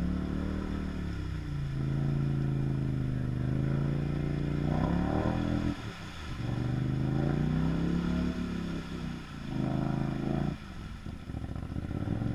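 Polaris Sportsman XP 850 ATV's parallel-twin engine revving through a carbon fiber M4 muffler, held at high revs in three long pulls with the revs dropping off about six and ten and a half seconds in, as the quad is worked in deep mud where it is bogged down.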